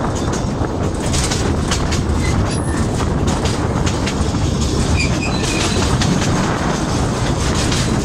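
Open-sided narrow-gauge railway carriage running along the track: a steady rumble with the wheels clicking and clattering over the rails.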